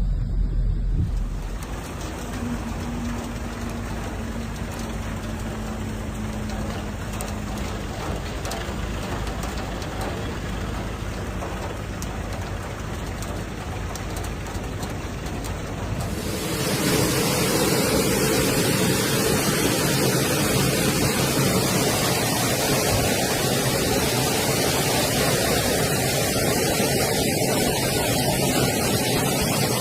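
Heavy rain pouring down with car traffic in a flooded street, a faint engine hum passing early on. About halfway through it changes abruptly to a louder, denser rush of rain and running water.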